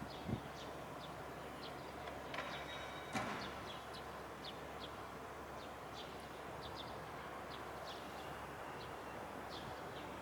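Small birds chirping: many short, high, falling calls scattered through, over a faint steady low rumble, with two soft thumps, one near the start and one about three seconds in.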